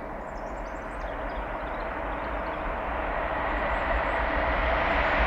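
An approaching train, its rushing noise growing steadily louder as it nears.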